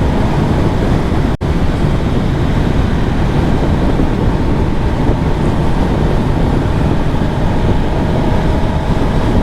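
Kawasaki ZX-10R motorcycle riding at cruising speed: steady wind rush over the helmet microphone with the inline-four engine running underneath. The sound drops out for an instant about a second and a half in.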